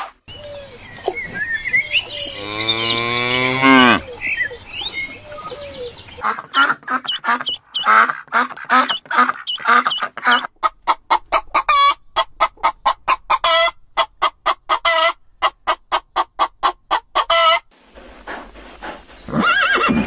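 A low elephant call sliding down in pitch, then white farmyard waterfowl honking in a long run of quick calls, about three a second toward the end. Near the end a horse starts to whinny.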